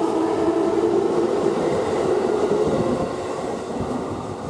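Electric commuter train running along the track beside the platform: a steady rumble of wheels on rails that fades away over the last second or so.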